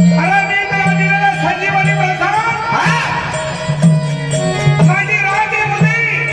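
Traditional Marathi devotional folk music: a wavering melodic line over a steady low pulse and hand drums.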